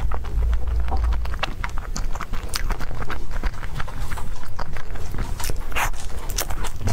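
Close-miked chewing of a soft, cream-filled dragon fruit crepe: wet mouth smacks and many irregular sticky clicks, with a lick of cream off a finger near the end.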